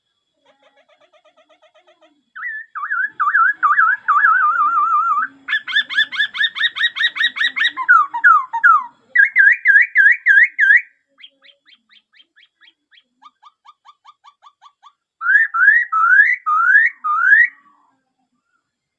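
Laughingthrush (khướu) singing a long, varied run of loud whistled phrases: a fast warbling trill, a rapid repeated trill, a few falling notes, a string of quick upswept notes, a softer stretch, and then a series of rising whistles near the end.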